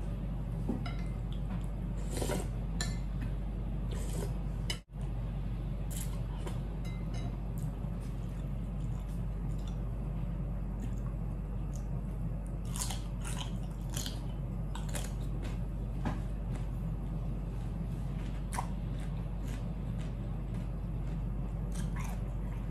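A person chewing and biting food close to the microphone, with scattered crisp crunches and mouth clicks over a steady low hum. The sound cuts out for an instant about five seconds in.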